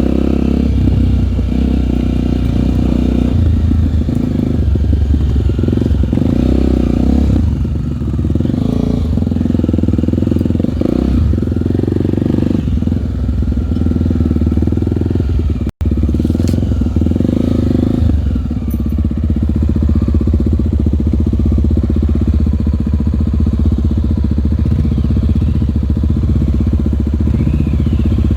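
Honda four-stroke single-cylinder trail bike engine running under a rider, the revs swelling and dropping repeatedly. The sound cuts out for an instant about halfway through, then the engine runs more evenly.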